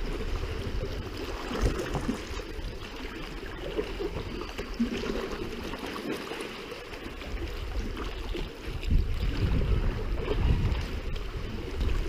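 Water trickling and lapping around a sea kayak on the move, with a low wind rumble on the microphone growing stronger about two-thirds of the way in.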